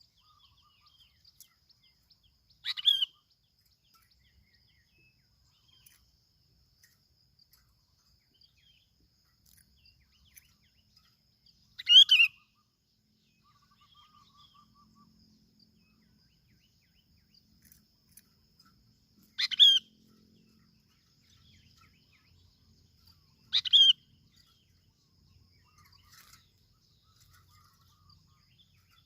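A bulbul giving four short, loud calls several seconds apart, about 3, 12, 19 and 24 seconds in, over a faint steady high hum.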